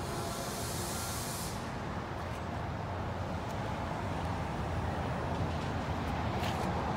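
Distant electric passenger train approaching on the line, a steady low rumble that grows slightly louder near the end. A high hiss cuts off suddenly about a second and a half in.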